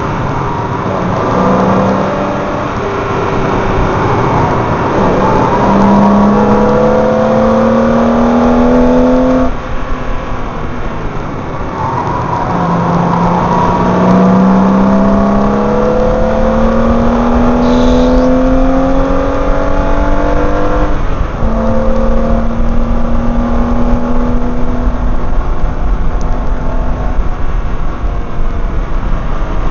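BMW M3 engine and exhaust pulling hard on a race track. The pitch climbs steadily in each gear, drops sharply at upshifts about ten seconds and about twenty-one seconds in, and is heard over road and wind noise from a microphone at the rear number plate.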